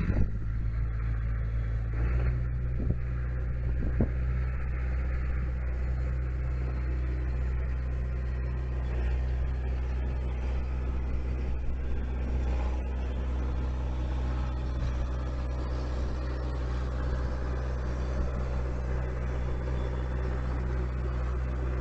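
Heavy diesel dump truck engine running steadily at idle, a low, even drone whose note steps up slightly about two seconds in.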